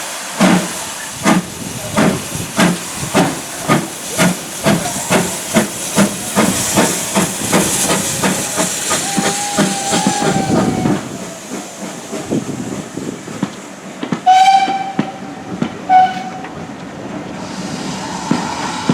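Steam locomotive exhaust beating in a steady rhythm, about two to three beats a second, with a hiss of steam. The beats die away about eleven seconds in, and two short, loud steam whistle blasts follow near the end.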